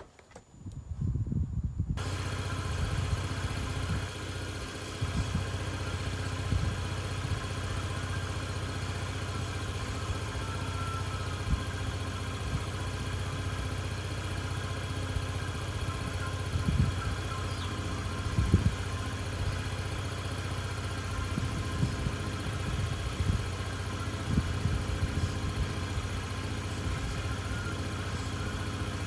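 Small moped scooter engine starting up about a second in, then idling steadily, with a few louder clatters past the middle.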